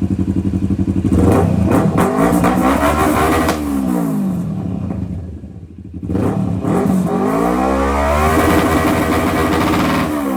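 Kawasaki Z650's parallel-twin engine breathing through a full aftermarket exhaust system, revved hard twice from idle, each rev climbing and then falling away. It makes a really loud, deep bass rumble.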